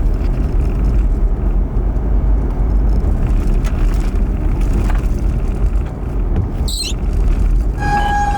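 Steady low rumble of road and wind noise from a moving chase vehicle. Near the end a steady siren tone starts up.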